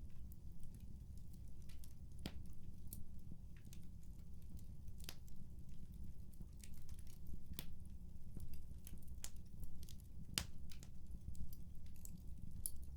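Fire in a fireplace crackling, with irregular sharp pops, a few louder ones, over a steady low rumble.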